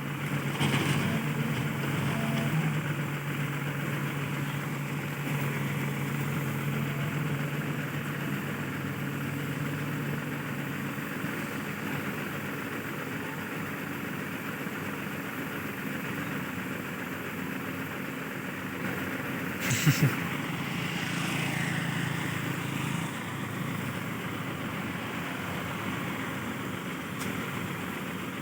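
Heavy diesel engine running steadily at idle. About twenty seconds in there is one short, sharp, loud clack.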